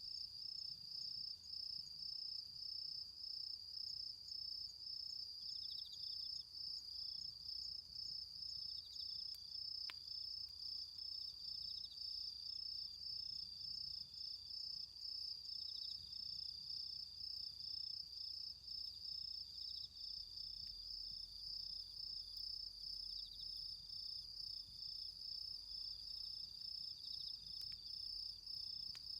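Autumn crickets singing: one continuous high, rapidly pulsing trill, with another insect chirping on and off at a slightly lower pitch. A single faint tick comes about ten seconds in.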